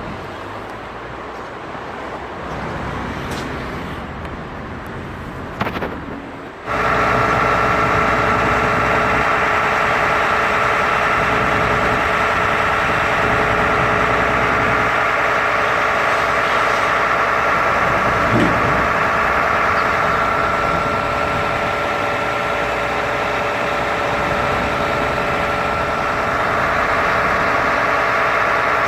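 Street traffic noise for the first several seconds, then an abrupt switch to an engine or machine running steadily with a constant hum and whine.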